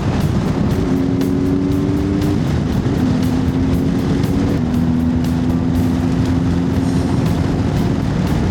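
Honda CB1100 air-cooled inline-four motorcycle engine running on the move, under heavy wind rumble on the helmet microphone. A droning engine tone steps down in pitch twice.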